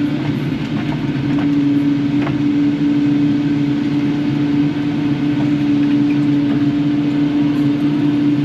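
Kubota KX080-4 excavator's diesel engine and hydraulics running steadily under work, a constant drone with a strong steady hum.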